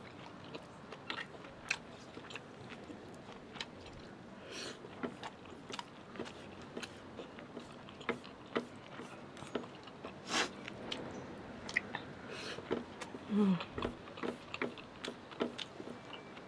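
Close-miked eating of noodles: wet chewing and mouth smacking, with scattered sharp clicks of chopsticks against the food tray.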